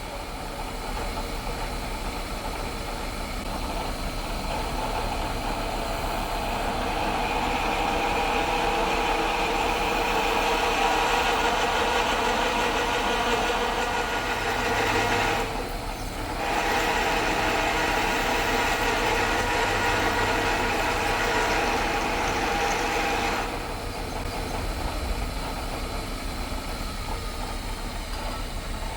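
Milling machine drilling bolt holes through a steel plate: a steady machining sound that dips briefly partway through, then drops to a quieter run near the end.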